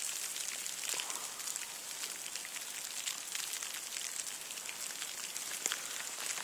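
Freezing rain, like a light hail, falling steadily as a dense patter of many small ticks over a soft hiss.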